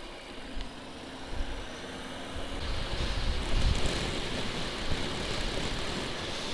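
Motorcycle engine running under way, with wind rushing over the microphone; the sound grows louder about a third of the way in.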